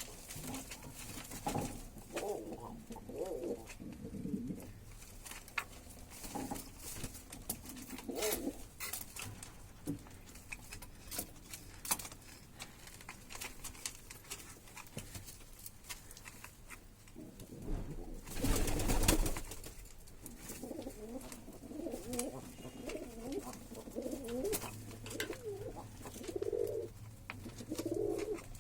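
Ornamental doves cooing over and over in low, warbling phrases, with scattered small clicks and a loud burst of rustling noise about two-thirds of the way through.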